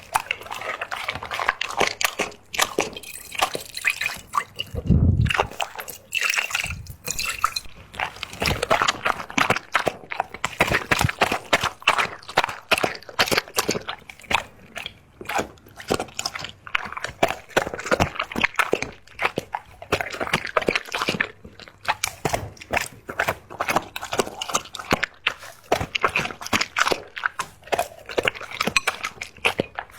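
A dog lapping up liquid: a fast, continuous run of wet laps and drips, with one low thud about five seconds in.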